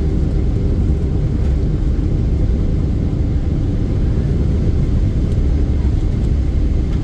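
Steady low rumble in the cabin of a Boeing 777-300ER, its GE90 engines and airflow heard from a window seat.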